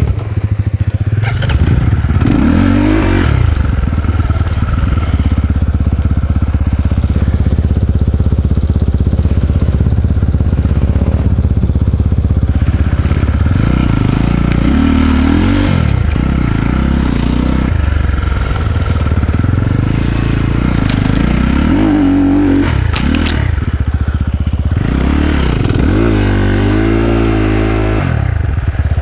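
Single-cylinder enduro dirt bike engine running on a trail ride, revving up and falling back again and again through gear changes, with rattling and clatter from the bike over rough ground.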